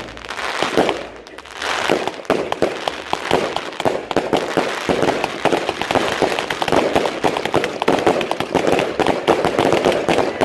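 Festival Khalifa and Maxi Show 100-shot fireworks cakes firing together: a rapid, continuous barrage of shots and bursting pops. It thins briefly about a second in, then runs dense again.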